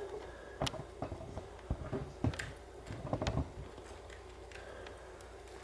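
Scattered light clicks and taps from hands handling small craft pieces, thickest in the first three seconds, then a faint steady room hum.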